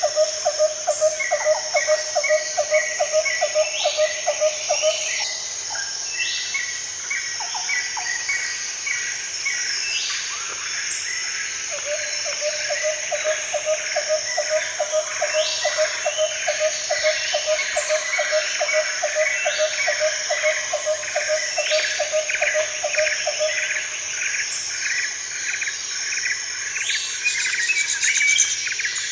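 Nature ambience of insects and birds: a steady high insect chorus, a rapid pulsing call that runs for several seconds, stops, and comes back for about ten seconds, and repeated chirping bird calls over the top.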